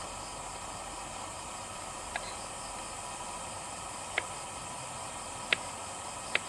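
Steady high hiss of insects in the forest, with four sharp clicks, one to two seconds apart.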